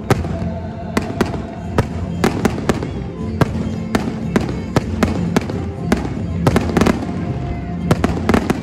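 Fireworks display: aerial shells bursting in quick succession, a string of sharp bangs about three a second, with music playing underneath.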